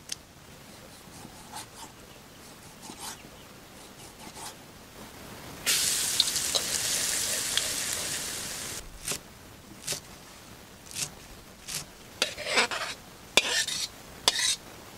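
Minced garlic and chili sizzling in a hot wok: a loud, even sizzle that cuts in suddenly about five and a half seconds in and stops about three seconds later. Before and after it, scattered light clicks and scrapes of a utensil against the metal wok.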